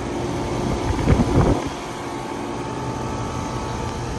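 Bryant and Ruud heat pump outdoor units running, a steady hum of compressor and fan with several steady tones, and a brief low rumble about a second in.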